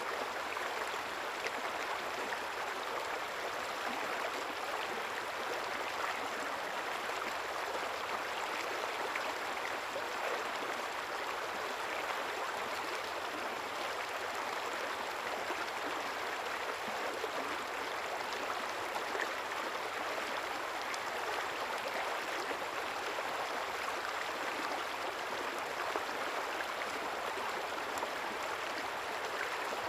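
Small river flowing and babbling over stones: a steady water rush.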